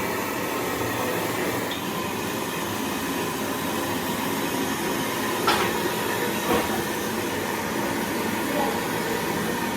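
Overhauled bore-well generator engine running steadily, with two short knocks about midway.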